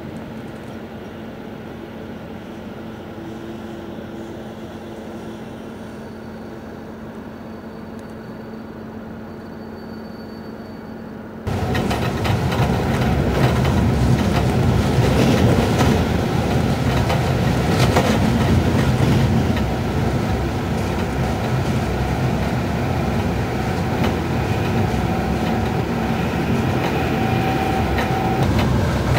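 Passenger train heard from inside a coach: a steady, quieter hum at first, then about eleven seconds in a sudden jump to the much louder rumble and rattle of the coach running at speed on the track.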